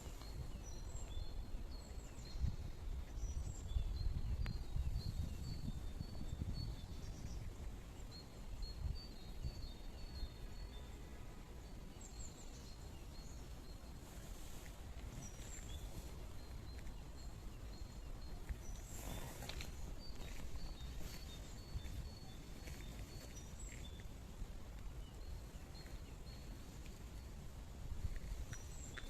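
Small birds chirping with short, high repeated notes throughout, over a low rumble that is strongest in the first several seconds. One brief rustle comes about two-thirds of the way through.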